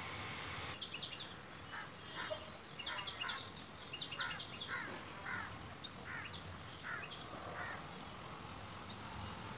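Birds chirping: clusters of quick, high chirps and a short falling call repeated many times, faint, over a steady background hiss.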